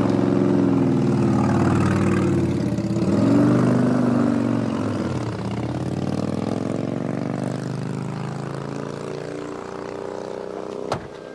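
A car engine revving as the car pulls away and drives off, its sound fading gradually. A single sharp click comes near the end.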